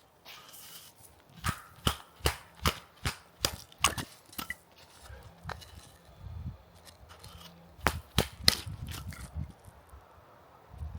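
Firewood being chopped: a series of sharp wooden knocks and cracks, about two a second at first, then a louder cluster near the end.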